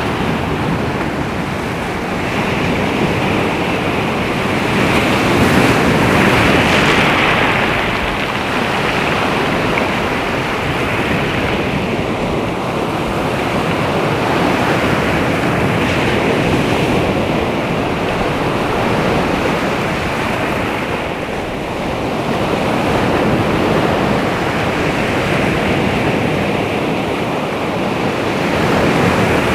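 Sea waves washing onto the shore: a continuous surf that swells and eases every several seconds, loudest about six seconds in.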